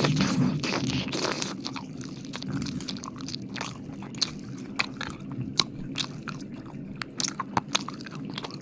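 Close-miked ASMR mouth sounds: wet licking and smacking, denser for the first second or so, then a run of irregular sharp wet clicks.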